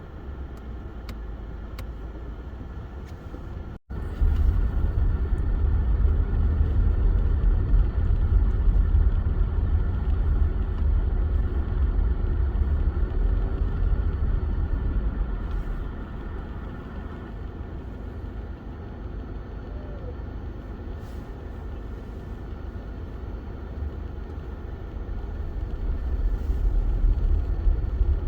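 A car being driven, a steady deep rumble of engine and road noise. It breaks off for an instant about four seconds in and comes back louder, eases off around the middle, and builds again near the end.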